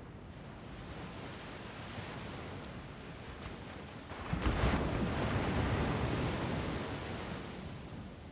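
Strong wind rushing, a gust that swells sharply about four seconds in and dies away near the end.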